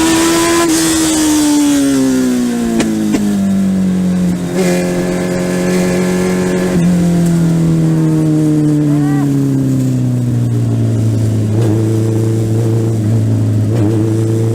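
Legend race car's Yamaha motorcycle four-cylinder engine, heard on board, coming off the throttle: the engine note falls in two stages and settles to a low, steady run near the end as the car slows.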